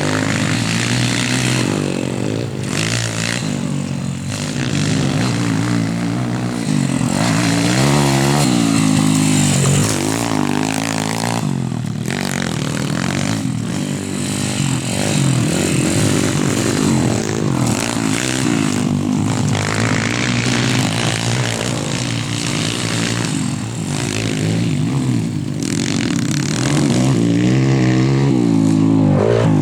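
YCF 140 pit bike's four-stroke single-cylinder engine running hard, its revs rising and falling over and over.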